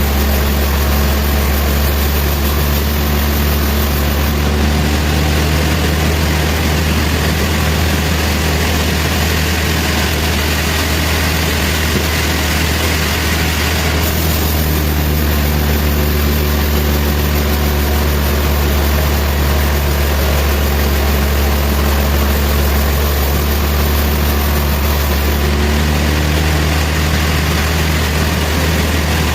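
Sawmill machinery running steadily: a constant low engine hum with a hiss over it, the hiss changing in tone a few times.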